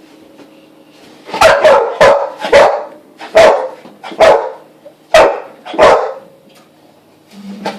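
A dog barking: after a quiet start, eight short, loud barks, the first three coming quickly and the rest at slower, uneven intervals.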